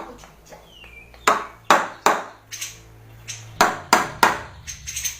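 Grey-cheeked bulbul (cucak jenggot) giving harsh, rasping call notes in two quick runs of three, about two seconds apart, with a short falling whistle about a second in.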